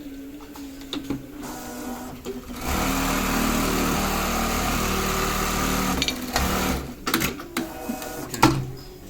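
Yuki 3020 programmable pattern sewing machine stitching at speed in a steady run of about four seconds, starting about three seconds in, with sharp clicks and knocks from the mechanism before and after the run.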